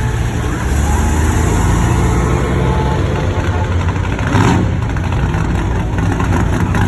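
Car engines and exhausts running as cars drive past, with a short louder burst a little past halfway.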